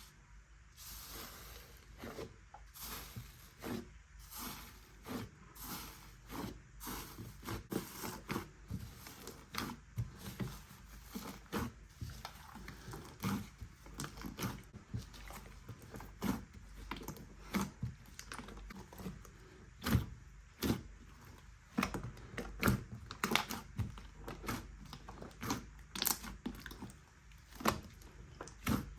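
Slime being squeezed and worked by hand, making irregular small sticky clicks and pops, several a second.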